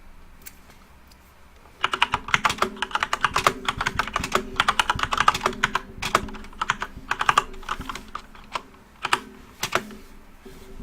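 Computer keyboard being typed on: a single keystroke, then a fast run of key clicks for several seconds, then a few separate keystrokes near the end.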